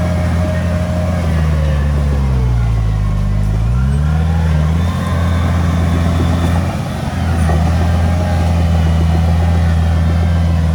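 Komatsu D31P bulldozer's diesel engine working under load. Its engine speed sags about two seconds in and picks back up, then runs on steadily with a brief dip near the end.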